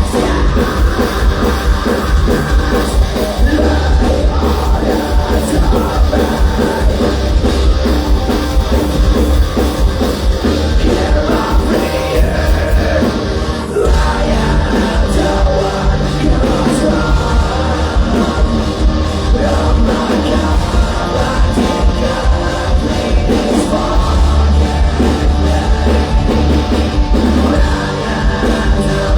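Live rock band playing loudly with heavy distorted guitars, bass and drums, with some sung or shouted vocals, echoing in a large hall.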